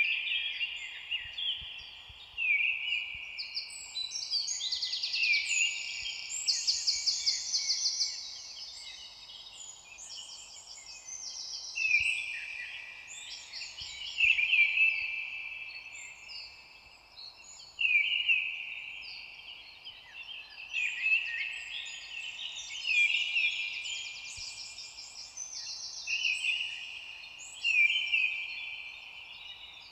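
Several songbirds singing at once, overlapping whistled phrases and fast trills that come and go every few seconds, over a faint steady background hiss.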